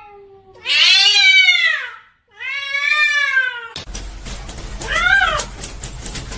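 A domestic cat meowing: two long, loud, drawn-out meows, each rising then falling in pitch. A hissy background starts abruptly about four seconds in, and one shorter meow follows.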